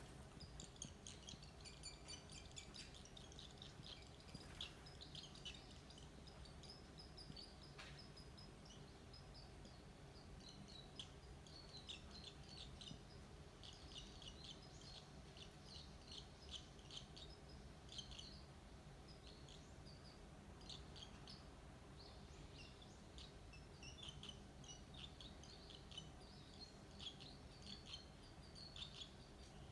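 Barn swallow nestlings, about five days old, giving faint, dry, high chirps from the nest: many short calls bunched in bouts that come and go, over a steady low hum.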